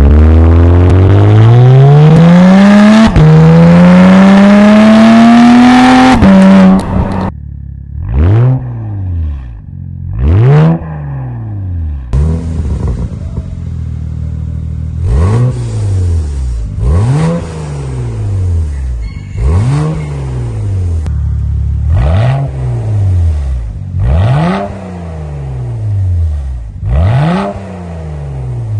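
BMW 335i's twin-turbo N54 straight-six through a valved aftermarket catback exhaust, accelerating hard with the pitch climbing, dropping at an upshift about three seconds in and climbing again. After about seven seconds it settles to a lower idle broken by a string of quick rev blips, one every two seconds or so, each rising sharply and falling back.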